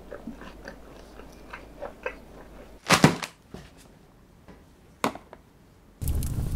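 Close-miked chewing of a mouthful of hot dog, with small wet mouth clicks. About three seconds in comes a sharp knock, then a lighter tap, as packaged food is set down on a stone countertop. Drum-led music starts near the end.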